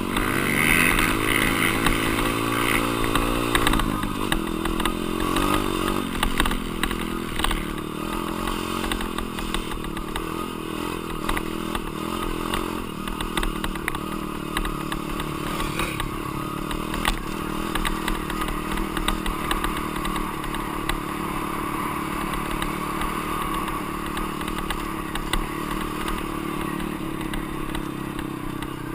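Dirt bike engine running under throttle. It climbs in pitch over the first few seconds as the bike accelerates, then holds a fairly steady, fluctuating pitch, with rattling and clatter throughout.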